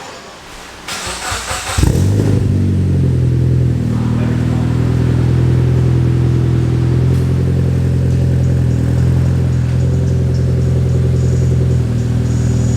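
Mitsubishi Lancer Evolution X's turbocharged 2.0-litre four-cylinder starting through a catless downpipe, 3-inch mid pipe and ETS dual mufflers. The starter cranks briefly, the engine catches just under two seconds in, settles, and idles steadily and loudly.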